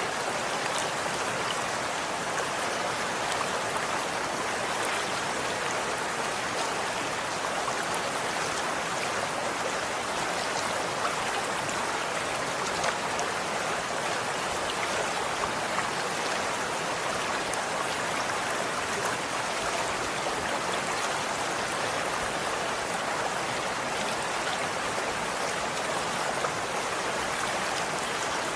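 Running water flowing steadily, an even rushing hiss with faint droplet ticks.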